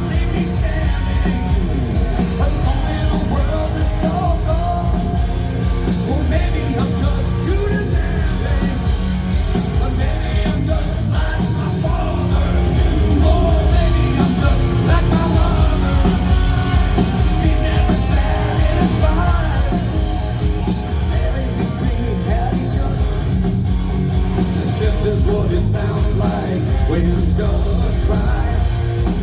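Live rock band playing loud amplified music, with electric guitar, bass, drums and some singing.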